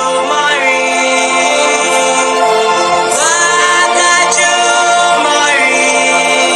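A cappella choir holding long sustained chords without words, several voices together; the voices slide up into new chords a few times, roughly every two and a half to three seconds.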